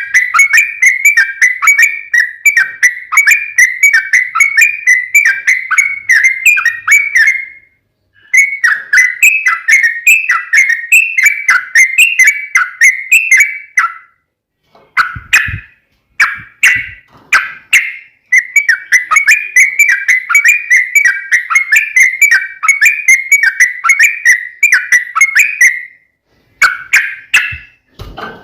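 Yellow-vented bulbul (trucukan) singing loudly in long, fast runs of short whistled notes, broken by a few brief pauses and shorter phrases.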